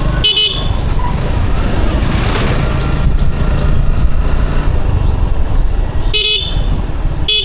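Steady engine and road rumble of a motorcycle ride, with a short horn beep near the start and two more near the end, about a second apart.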